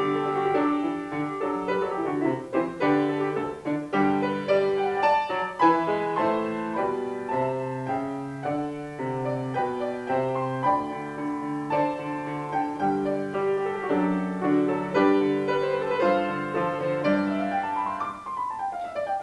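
Handbells ringing chords and melody over piano accompaniment, with a sweeping downward piano glissando near the end.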